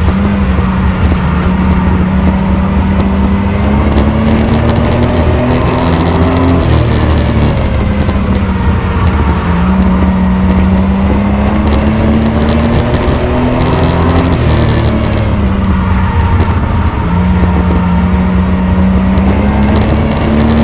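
Race truck engine running hard and loud in a truck enduro. Its pitch climbs steadily for several seconds, drops back, then climbs again, about three times, as it laps a short oval track.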